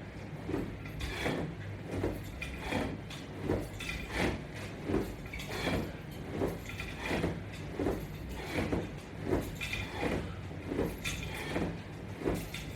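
Resistance-band strap attachment creaking in an even rhythm, one creak with each crunch, about three every two seconds, over a low steady hum.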